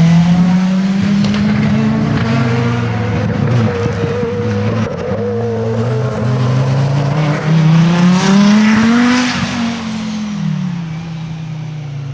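Rally car engine revving hard on a stage, its pitch rising and dropping with throttle and gear changes. It is loudest about eight to nine seconds in, then falls away.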